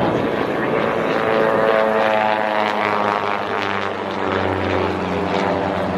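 Propeller airplane flying by, its engine droning with many evenly spaced overtones.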